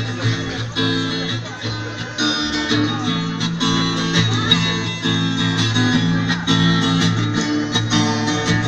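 Acoustic guitar strummed in a steady rhythm, changing chords every second or so: the instrumental intro of a song before the vocals come in.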